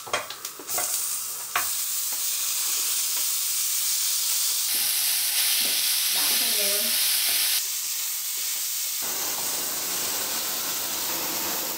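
Marinated chicken pieces going into a hot frying pan of oil and aromatics. A few clicks come as they land, then a steady sizzle from about a second and a half in, which carries on as they are stirred with a spatula.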